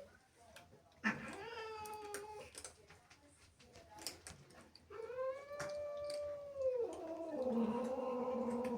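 An angry cat caterwauling: two long, drawn-out yowls, the second held steady for about two seconds, then a lower, steady moan near the end.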